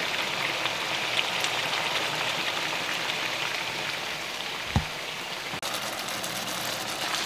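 Chicken breast pieces sizzling steadily in hot oil in a pan, left to sear undisturbed. A single dull thump sounds about five seconds in.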